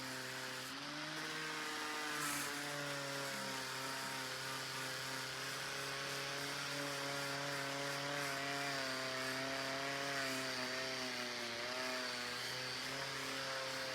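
A power tool's electric motor running steadily, its pitch wavering slightly as the load on it changes.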